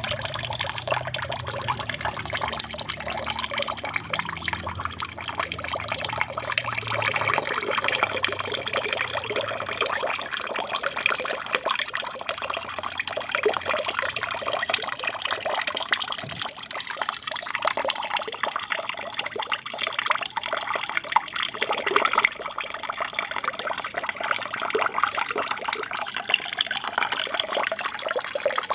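Water from a small aquarium waterfall splashing and trickling steadily. A low hum sits underneath for the first ten seconds or so, then fades out.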